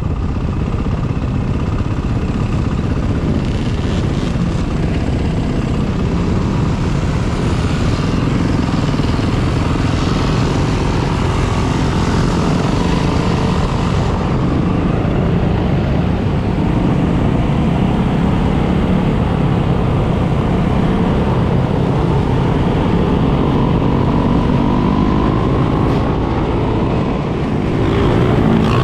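Dirt bike engines running steadily while riding, with the engine pitch rising and falling as the throttle is worked and climbing near the end.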